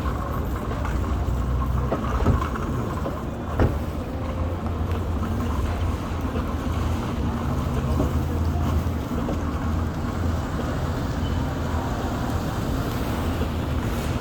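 Steady low vehicle engine rumble with wind on the microphone, and two short knocks a little over a second apart a couple of seconds in.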